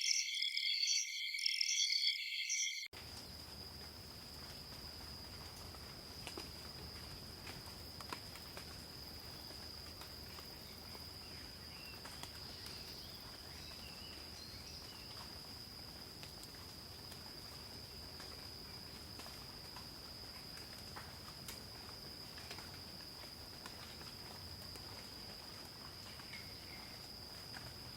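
Night forest crickets: for about the first three seconds a loud pulsing chorus, then an abrupt cut to a quieter, steady high-pitched insect trill over faint hiss, with a few faint chirps and ticks.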